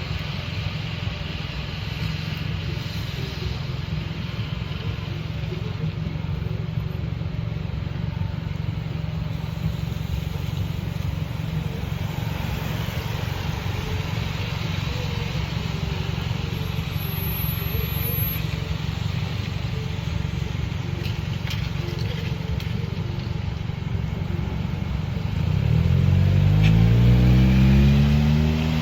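Steady low rumble. Near the end a motor vehicle's engine revs up, rising in pitch and getting louder.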